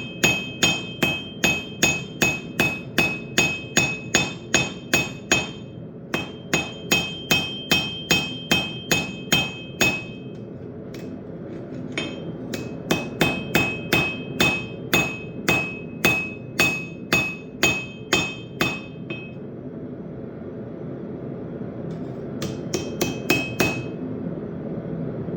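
Blacksmith's hammer forging steel on an anvil: runs of even blows, about three a second, with short pauses between runs, each blow followed by a bright ring from the anvil. A steady low drone runs underneath.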